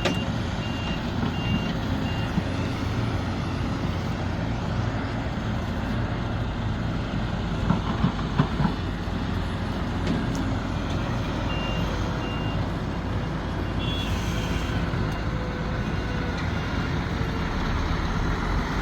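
Sumitomo SH370LHD-6 excavator's diesel engine running steadily, with a reversing alarm beeping in two spells, one at the start and one in the second half. A few sharp knocks come about eight seconds in.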